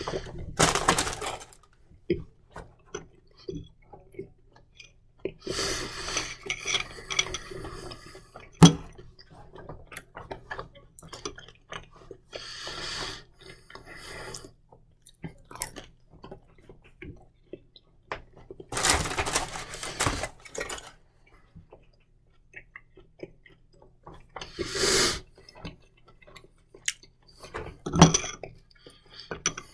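A spoon clinking and scraping in a jar of mustard, with chewing in between. A scatter of small clicks and a few short noisy rustles run through it, and one sharp click about nine seconds in is the loudest.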